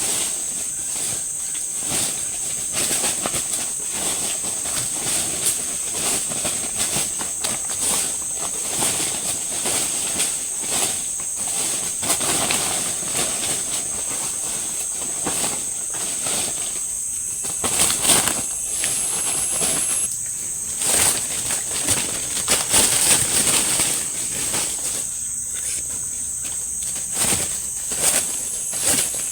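Night insects in tropical forest, such as crickets, keeping up a steady high-pitched chorus, with frequent short clicks scattered through it.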